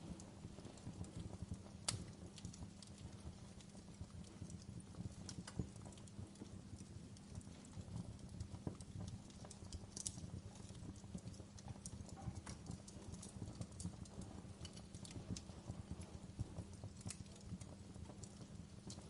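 Wood fire crackling: irregular sharp pops and snaps over a low, steady rumble, with a few louder pops about 2, 10 and 17 seconds in.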